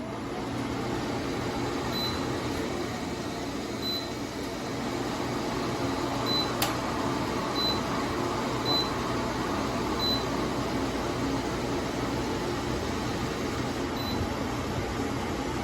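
Joy Pebble 2.0 kW portable spot cooler running steadily: an even rush of air over a low hum. There are a few faint, short high peeps and a single click about six and a half seconds in.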